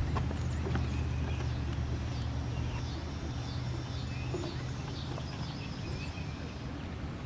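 Outdoor ambience: birds calling in repeated short high notes over a steady low hum.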